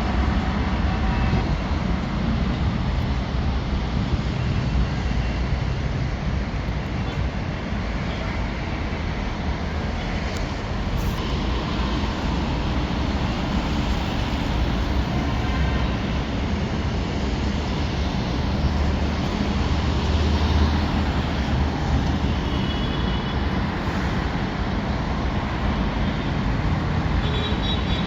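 Steady noise of a moving vehicle and road traffic, with a deep, even rumble underneath.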